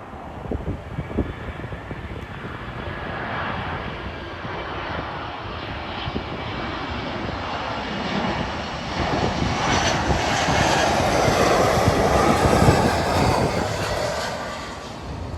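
Jet airliner passing low overhead on its landing approach: the engine noise builds steadily, is loudest about ten to thirteen seconds in, then fades.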